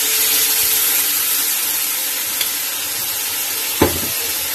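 Chicken sizzling in a hot stainless steel wok with rice wine just poured in: a steady hiss. A single sharp knock comes near the end.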